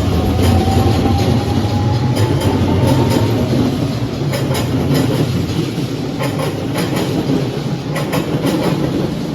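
Passenger train running on rails, heard from inside the car: a steady rumble with wheels clicking over rail joints, and a thin whine rising in pitch over the first three seconds.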